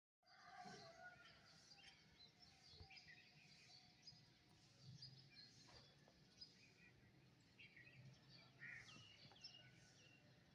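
Faint birdsong: several birds chirping and calling in short, scattered notes over a low steady background hum.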